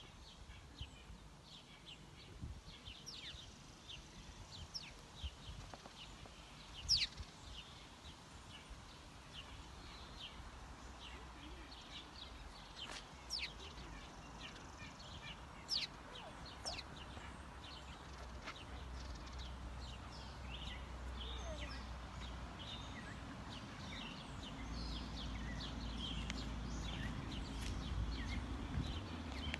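Small birds chirping with short, high notes scattered throughout, a few louder calls among them. A low rumble grows louder in the second half.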